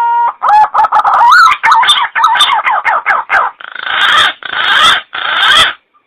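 Punai (green pigeon) lure call recording: a rising whistle runs into a quick series of warbling whistled notes, followed by three harsh rasping notes.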